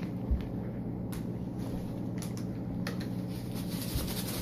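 Steady low hum with a few soft clicks and taps scattered through it.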